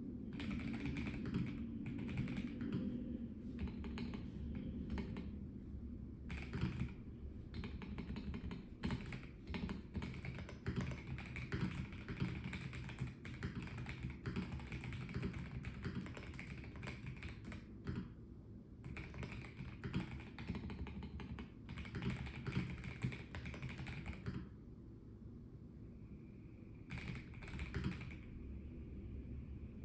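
Typing on a Melgeek Mojo84 plastic-case mechanical keyboard: quick runs of key clicks, broken by short pauses, the longest about three-quarters of the way through.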